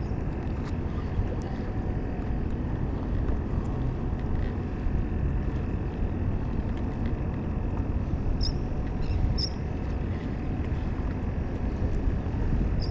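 Steady low rumble of wind on the microphone and water noise around a small open fishing skiff, with a few short high chirps about two-thirds of the way through.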